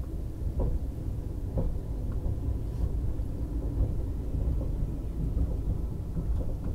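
Low, steady rumble of a passenger train rolling slowly over the track, heard from inside the coach, with a few faint knocks from the wheels.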